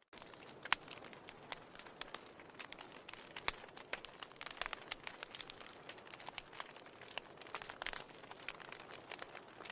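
Fire crackling in a fireplace: a steady hiss with frequent, irregular sharp snaps and pops.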